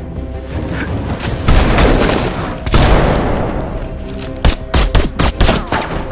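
Film gunfire sound effects over dramatic score music: a long dense stretch of loud noise, then a quick run of about seven sharp shots near the end.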